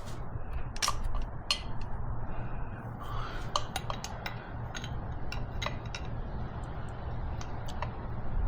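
Scattered light metallic clinks and ticks of a wrench working the injector hard-line fittings on a Kubota V2203 diesel engine, over a steady low hum.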